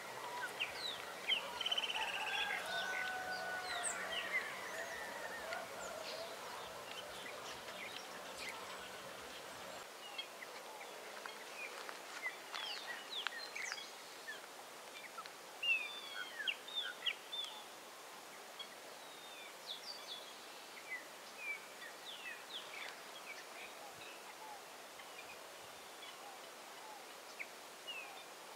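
Birds chirping and calling, with many short, quick notes from several birds throughout. The calls are busiest and loudest in the first few seconds.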